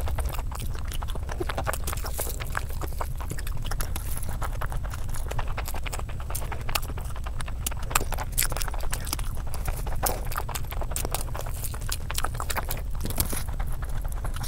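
Close-miked chewing of a mouthful of chicken biryani: a dense run of wet mouth clicks and smacks, over a steady low hum.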